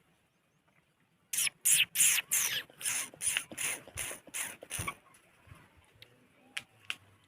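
Ringneck parrot giving a rapid run of about a dozen harsh screeching calls, about three a second, for some three and a half seconds. Two faint clicks follow near the end.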